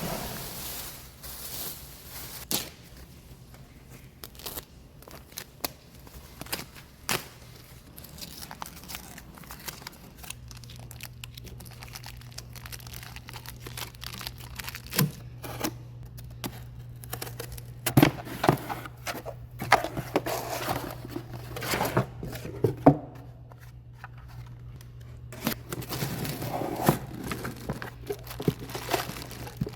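Cardboard box and packaging being opened and handled: tearing and crinkling, with scattered sharp clicks and knocks. A steady low hum sets in about a third of the way through.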